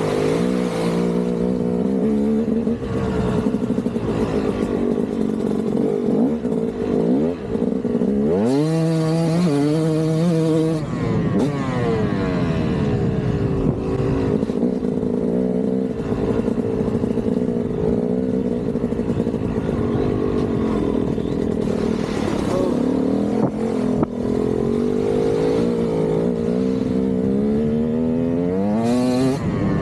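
KTM 200 single-cylinder two-stroke dirt bike engine being ridden off-road, the revs rising and falling with the throttle and climbing sharply about eight seconds in and again near the end. A sharp knock about 24 seconds in.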